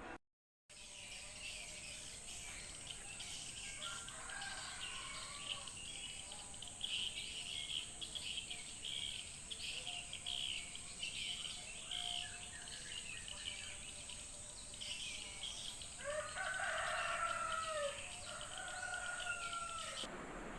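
A rooster crowing several times, loudest about three-quarters of the way through, over steady chirping of small birds and a constant high-pitched whine.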